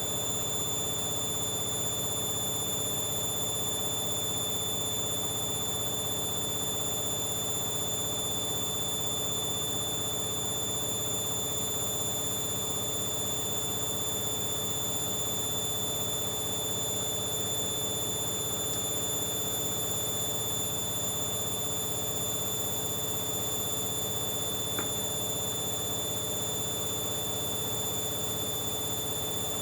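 Hoover Dynamic Next washing machine running, a steady high-pitched whine over a low hum that holds unchanged throughout.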